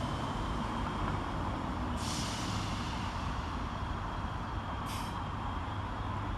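Scotrail Class 320 electric multiple unit at a standstill, its equipment running with a steady noise and a faint high whine, and the air brakes giving short hisses of released air: a half-second one about two seconds in and a very brief one near five seconds.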